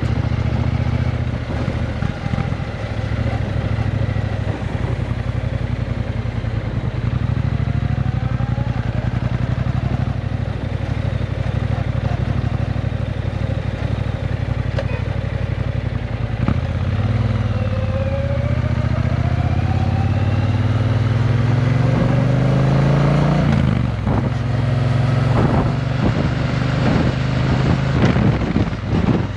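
Triumph Bonneville T120's 1200 cc parallel-twin engine running through a Vance & Hines exhaust, steady at first. Past the middle it pulls up in pitch for several seconds as the bike accelerates, then the note turns choppy near the end.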